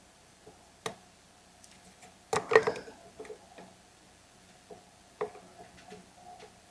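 Scattered clicks and knocks of small chainsaw parts and fuel line being handled at a workbench, with a sharp click about a second in and a short louder clatter about two and a half seconds in.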